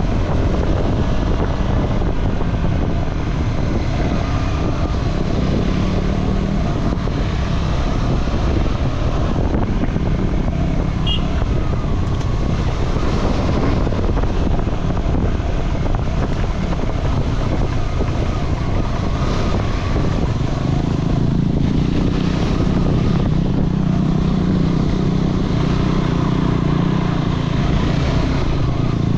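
Motorcycle engine running under way, its note rising and falling with the throttle and strongest near the end.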